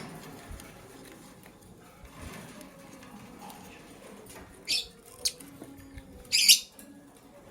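Lovebirds giving three short, shrill chirps in the second half, the last one the loudest and longest.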